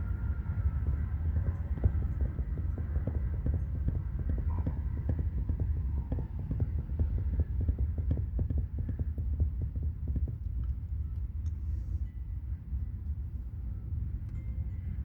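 Steady low rumble of interstate traffic, with a run of rapid fluttering knocks from about two to ten seconds in that fades after.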